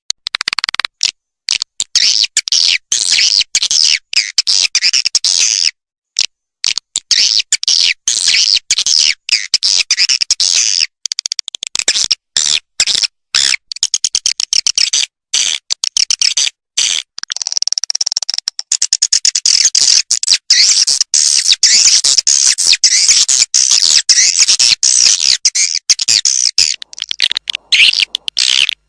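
Recorded swiftlet calling sound, the lure audio played to draw swiftlets into a nest house: dense, rapid high-pitched chirps and twitters, broken by abrupt cuts to silence.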